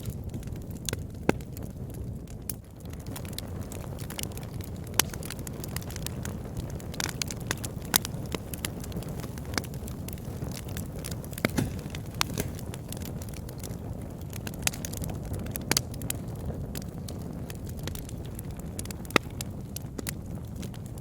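Fire burning in a fireplace: a steady low rumble of flames with irregular sharp crackles and pops throughout, a few of them louder snaps.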